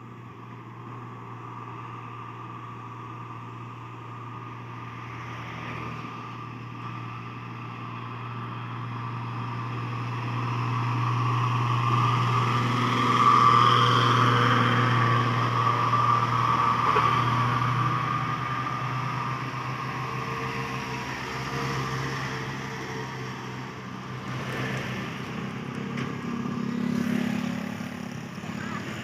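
Truck engine pulling up a steep grade, growing louder to a peak about halfway through as it passes, then fading; a second vehicle swells up near the end.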